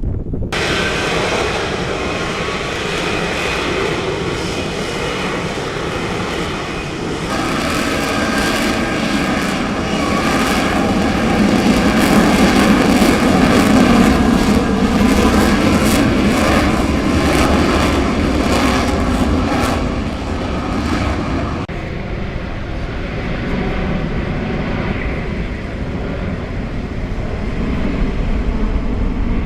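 Fixed-wing aircraft engines loud overhead in a flying display, a dense noise with steady tones through it, growing to its loudest about halfway and easing after a sudden change near the end.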